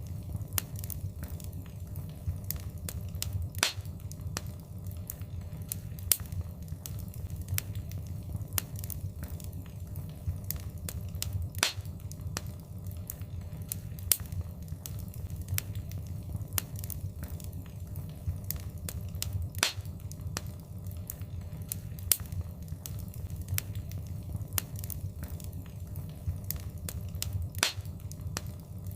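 Wood fire crackling: frequent sharp pops and snaps, a few of them much louder, over a steady low rumble of the flames.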